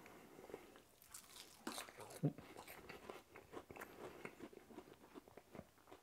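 A person biting and chewing a crisp battered sweetcorn tempura fritter: faint, irregular crunches, the loudest about two seconds in.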